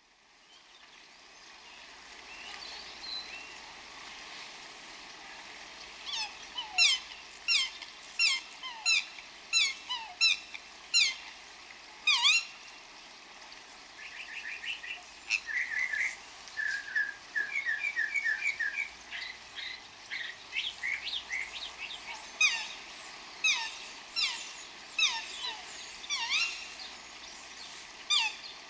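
Songbird singing outdoors: a series of sharp, sweeping, down-slurred chirp notes, with a quicker run of short notes in the middle, over faint steady background noise.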